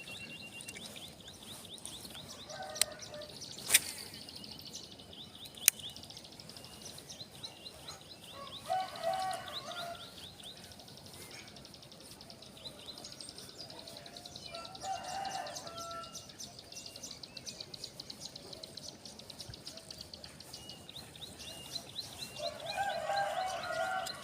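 Outdoor morning ambience: a rooster crows three times, about a third of the way in, around the middle and near the end, over continuous rapid high-pitched chirping of birds or insects. A few sharp clicks come in the first several seconds.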